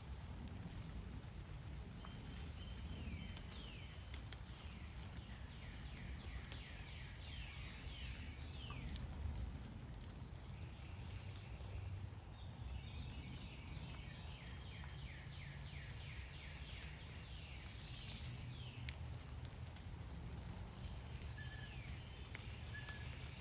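Songbirds singing: two runs of rapid, repeated down-slurred chirps, one near the start and a longer one in the middle, with a few short high whistles, over a steady low rumble of background noise.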